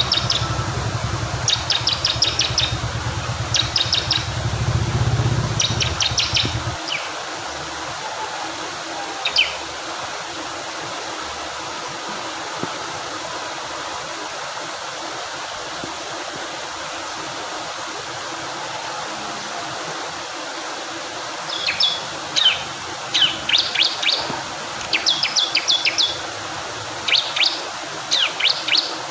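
Bar-winged prinia (ciblek kristal) singing in short bursts of rapid, high, trilled notes over a steady rush of flowing water. A low rumble underneath stops abruptly about seven seconds in. The song pauses for a long stretch in the middle, then comes back in quick repeated phrases near the end.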